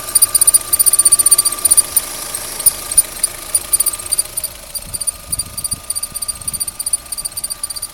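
Opel Z16XEP 1.6-litre four-cylinder petrol engine running with a whistle from its accessory belt drive: a steady high whistle with rapid high-pitched chirps over it, the chirps thinning out after about three seconds. The cause is unclear; the drive belt or the water pump is suspected.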